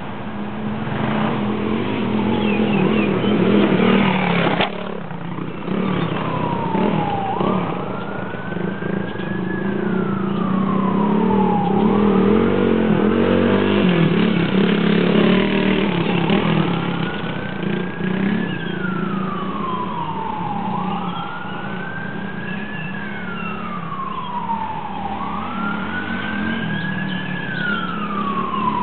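Wailing siren rising and falling about every four and a half seconds, over the steady drone of an engine that swells louder at times. One sharp click comes a little before five seconds in.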